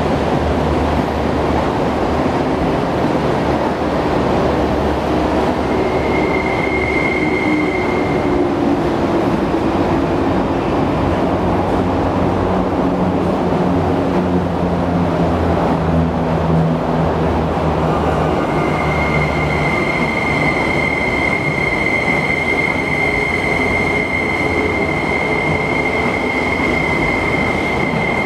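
SP-1900 electric multiple unit running slowly, its motor hum drifting in pitch over a steady rumble. A high steady wheel squeal sounds briefly about six seconds in and again from about eighteen seconds on.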